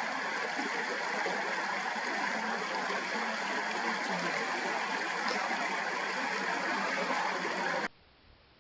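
Steady rush of a flowing stream, which cuts off abruptly near the end.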